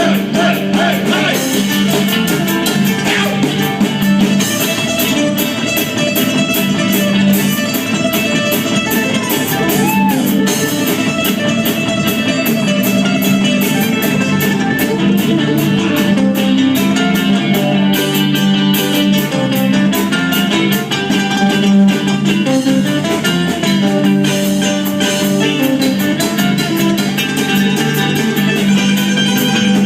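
Instrumental break of a live rock song, led by guitar over a steady beat, with no singing.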